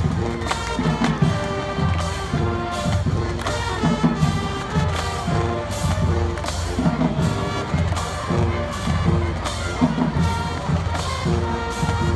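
High school marching band playing a brass tune over a steady drum beat.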